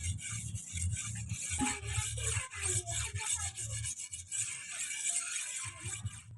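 Steel blade worked back and forth against an abrasive, filed or stoned, in quick rubbing strokes with a dull knock under each one.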